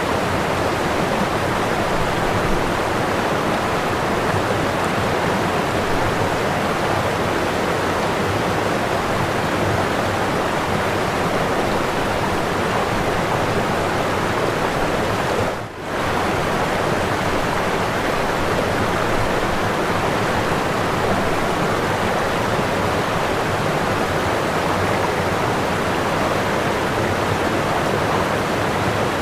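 Whitewater pouring over a waterfall: a steady, dense rush, with a brief dip in level about halfway through.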